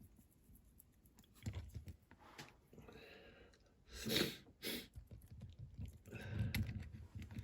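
Small scattered handling noises of parts and tools on a workbench, with two short breathy sounds, like sniffs, about four seconds in.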